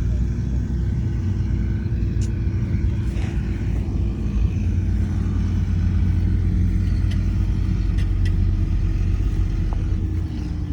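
Heavy diesel engine of earthmoving machinery running steadily under load, with a held tone over the rumble and a few sharp clicks.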